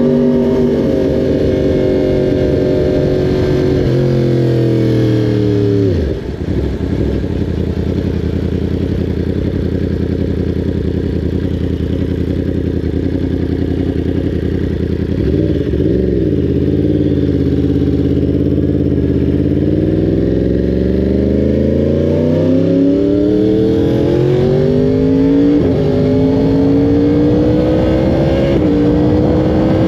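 Yamaha R1's inline-four engine under hard acceleration, its revs climbing and stepping down with each upshift. The revs fall away sharply about six seconds in, hold fairly steady, then climb again with two quick upshifts near the end.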